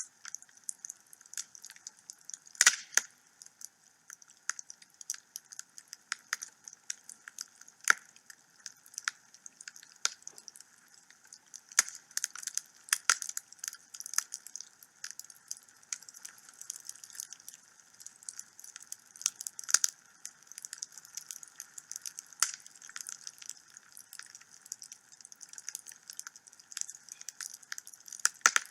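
Wood fire burning in a home fireplace: a steady hiss with irregular crackles and pops throughout, and a few louder snaps.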